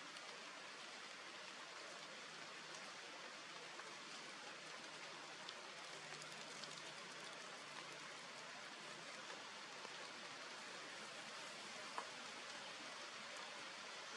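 Faint steady hiss of background noise, with one sharp click about twelve seconds in.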